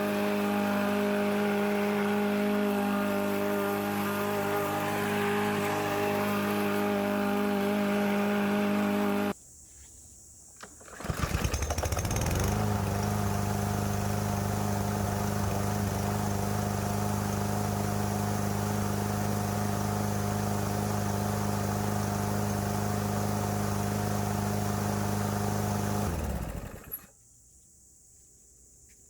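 Briggs & Stratton engine of a Troy-Bilt TB110 push mower running steadily, cutting out suddenly about nine seconds in. It then starts again with a few quick pulses, catches and runs steadily, and is shut off near the end, winding down. The engine starting and running here is the sign that the no-start after long storage, blamed on clogged fuel, has been fixed.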